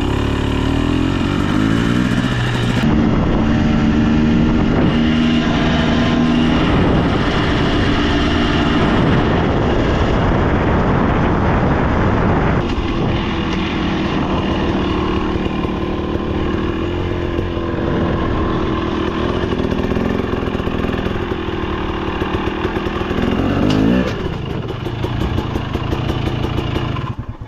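KTM 300 XC TBI dirt bike's two-stroke single-cylinder engine being ridden, its revs rising and falling as the throttle changes, with quick rev swings in the first couple of seconds and again near the end.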